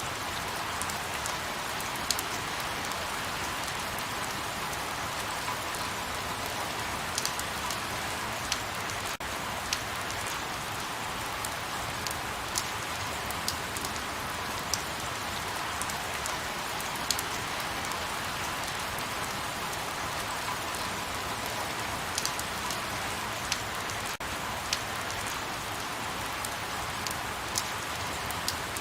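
Light rain falling steadily: an even hiss of rain with scattered individual drops ticking sharply on a surface, roughly one every second or two.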